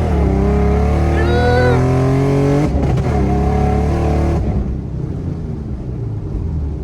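Nissan 350Z's V6 engine and exhaust pulling hard through the gears: the revs climb, break off briefly at a gear change a little under three seconds in, climb again, then the throttle lifts about four and a half seconds in and the engine falls to quieter running.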